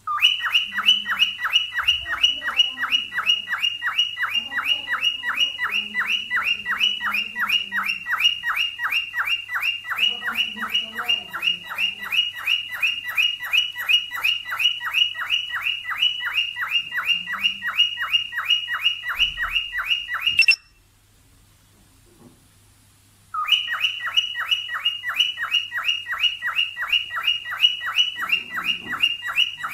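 Cockatiel mating call: a rapid, very even series of sharp chirps, about four or five a second, each dropping in pitch. It breaks off about twenty seconds in and starts again about three seconds later.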